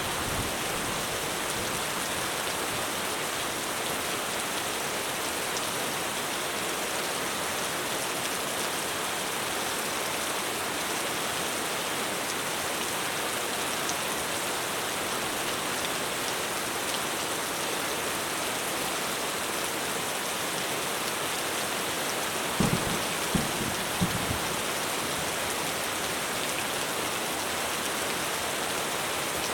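Heavy rain pouring steadily on a roof. Three short low thumps come close together about three quarters of the way through.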